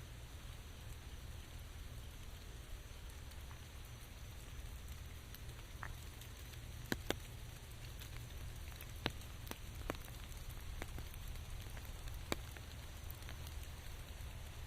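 Steady rain hissing, with a low rumble underneath and scattered single drops landing louder and sharper in the middle, two of them in quick succession.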